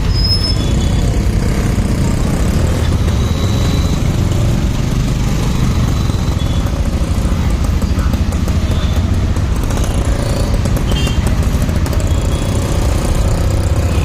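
Motorcycle underway at a steady pace: a continuous low engine and wind rumble with no revving or stops.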